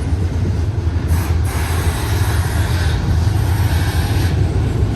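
BNSF double-stack intermodal freight train running past: a steady low drone from its diesel locomotives under a hiss of wheels on rail. The hiss grows louder from about a second in and eases again near the end.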